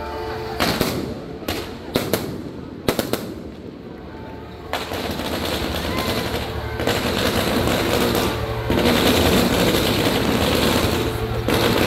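Fireworks display: four or five sharp, separate bangs in the first three seconds, then a fan of comets fired together sets off a dense, rapid, continuous crackling and hiss that grows louder about nine seconds in.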